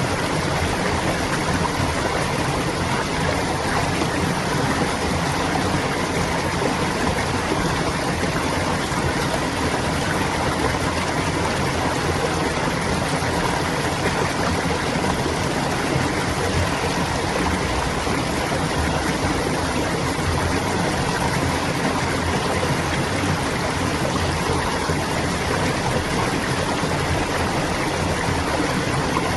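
Shallow stream of clear water flowing and babbling steadily over stones.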